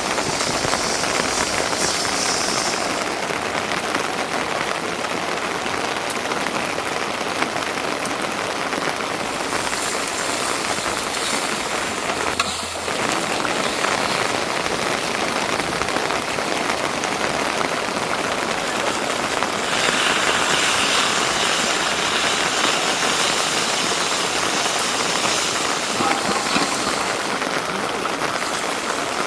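Steady rain falling, an even hiss of drops that eases briefly about twelve seconds in and grows a little louder around twenty seconds.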